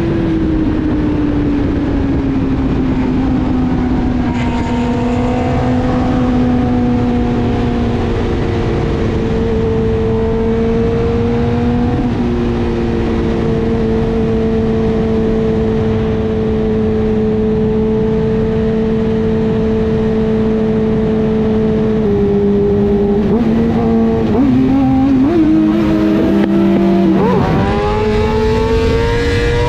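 Car engine running under way with road and wind noise. Its pitch eases down and holds steady while cruising, then shifts a few times, dips, and climbs steadily near the end as the car accelerates hard.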